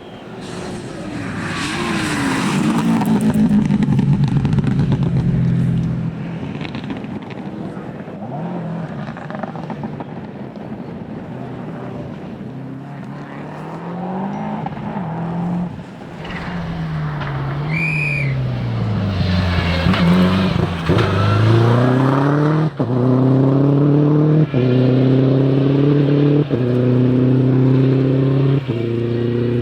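Four-wheel-drive rally cars at full attack. One passes near the start with its engine note falling away. About halfway in, a car brakes and blips the throttle on downshifts, then accelerates hard through the gears, the revs climbing and cutting sharply at each quick upshift about every two seconds.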